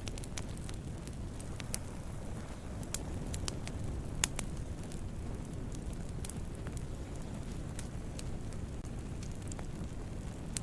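Wood campfire burning with a steady low rumble of flames and scattered sharp crackles and pops, the loudest pop about four seconds in.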